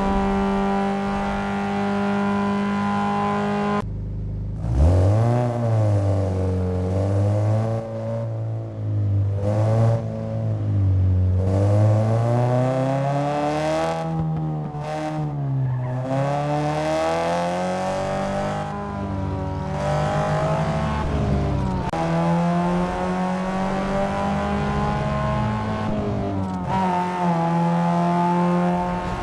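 Renault Mégane 2.0 turbo engine running at a steady high pitch, then, after an abrupt change about four seconds in, revving up and down again and again for some eighteen seconds before settling back to a steady drone.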